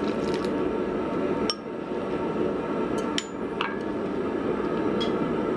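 A few sharp metallic clinks of steel striking steel, some ringing briefly at a high pitch, about five in all, over a steady rushing noise.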